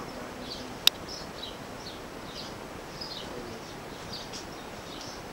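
Birds chirping outdoors: a steady run of short, high chirps that fall in pitch, about two a second. A single sharp click about a second in is the loudest sound.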